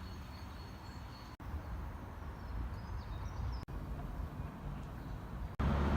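Outdoor ambience: a steady low rumble of wind or distant traffic, with faint bird chirps twice. The sound breaks off abruptly three times where short clips are cut together.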